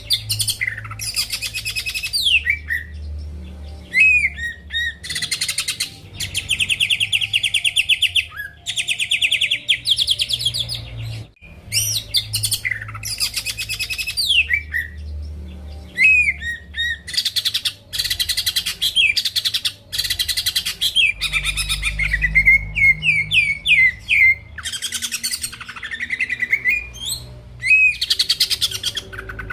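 Cucak ijo (greater green leafbird) singing loudly and continuously in full song: phrase after phrase of very fast trills mixed with sweeping whistled notes that glide up and down.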